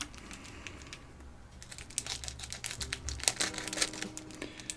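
Small irregular clicks and light crinkling from a plastic parts bag being handled and cut open with a sharp knife. The clicks get busier about two seconds in.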